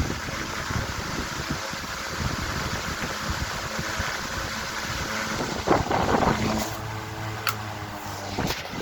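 Antique Century S3-16 16-inch electric fans running with a steady rush of air and a faint motor hum. A few sharp clicks follow in the later part, after which the hiss thins as the fans are shut off to spin down.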